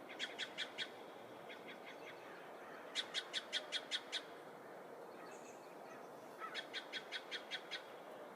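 A bird calling in three quick trains of sharp, evenly repeated notes, about six a second, over a steady background hiss.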